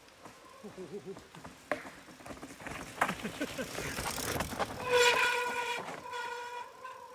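Mountain bike rattling over a rough, wet trail, then its disc brakes squealing loudly for about a second, with a second shorter squeal near the end: wet brakes being dragged on a descent.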